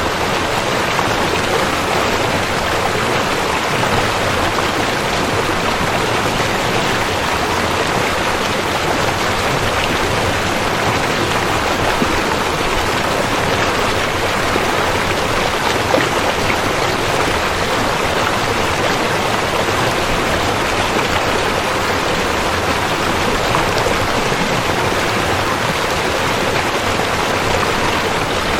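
River water flowing with a steady, even hiss of running water.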